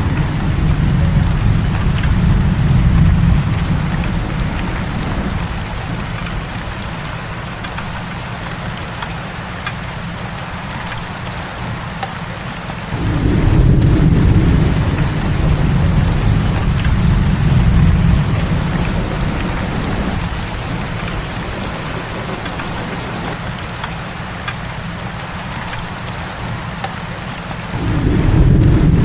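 Heavy rain falling in a steady hiss, with low rumbles of thunder: one dying away over the first few seconds, another starting abruptly about 13 seconds in and rolling for several seconds, and a third starting near the end.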